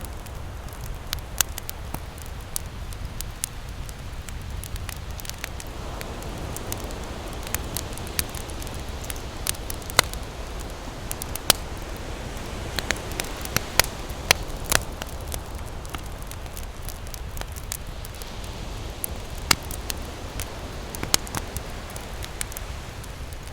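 Campfire crackling and popping in irregular sharp snaps, a few of them loud, over the low rumble and wash of ocean waves that swells and fades a few times.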